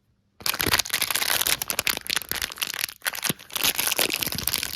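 A small plastic toy wrapper crinkling and being torn open, starting about half a second in: a dense, crackly rustle.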